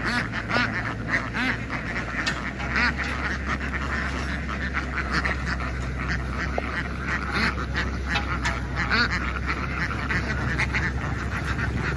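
A large flock of domestic ducks quacking continuously, many calls overlapping, over a steady low hum.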